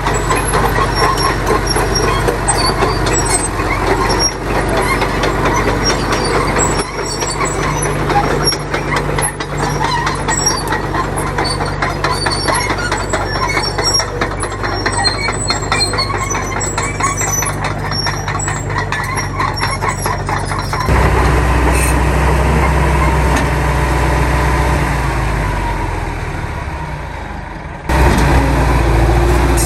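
Diesel engines of heavy earthmoving machinery running, with dense metallic clatter for the first twenty seconds or so. About two-thirds of the way in, a deeper, steadier engine note takes over, and near the end the sound changes abruptly.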